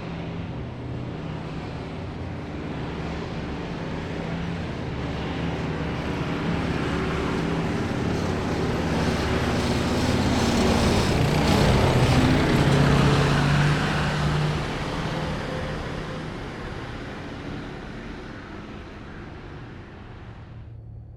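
Heavy military vehicles of a parade column driving past, their engines growing louder to a peak about twelve seconds in, then fading as they move away.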